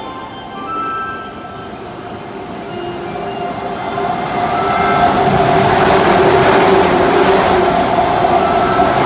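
Electric commuter train passing through the station at speed, growing louder from about three seconds in until it is close and loud. Its rumble carries a steady squeal.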